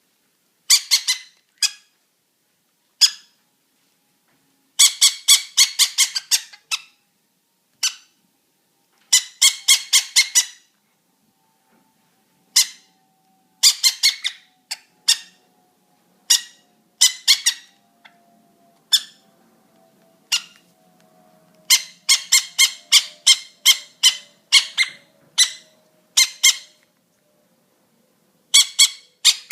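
Baby parrot chick giving loud, harsh begging calls while being hand-fed. The calls come in bouts of rapid short squawks, several a second, broken by pauses of a second or two.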